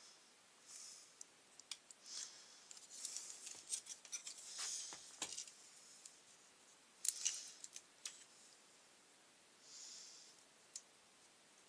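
Light clicks, scrapes and rustles of hands handling the strimmer engine's small parts and wiring while working a loose wire back onto the ignition coil. The sounds come in scattered bursts, the loudest cluster about seven seconds in.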